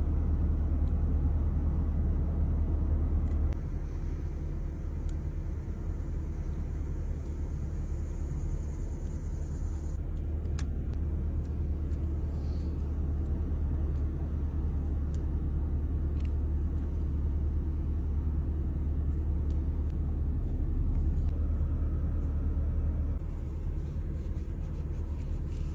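Steady low rumble of a car engine running, heard from inside the car.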